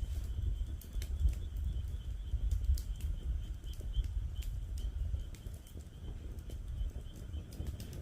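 Wood fire crackling in a fire pit, with many scattered sharp pops, over a steady chorus of frogs calling.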